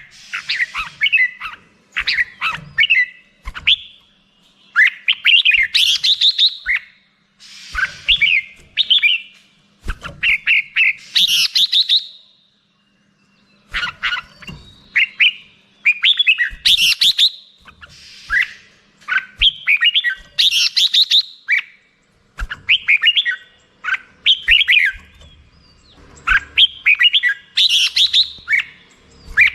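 Red-whiskered bulbul singing: short, bubbly phrases of chirps and whistles, one after another with brief gaps between them. A longer pause falls about twelve seconds in.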